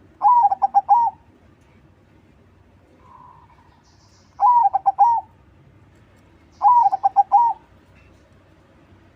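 Crossbred zebra dove (perkutut crossing) cooing three times, each phrase under a second: a first note, a quick run of short notes and a closing note.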